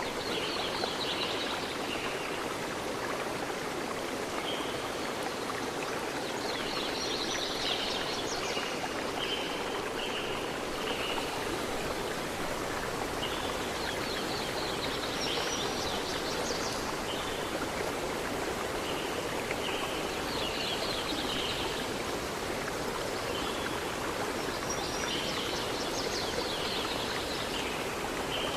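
River stream rushing steadily, with birds singing short phrases every few seconds over it.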